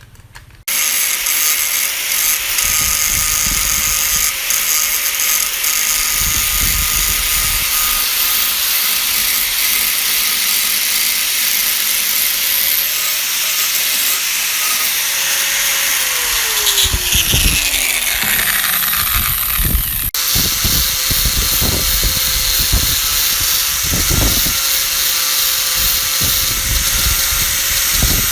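Small electric power tool running with a steady whine, the kind used to strip rust. About sixteen seconds in its pitch slides down, and the sound breaks off abruptly around twenty seconds in before carrying on.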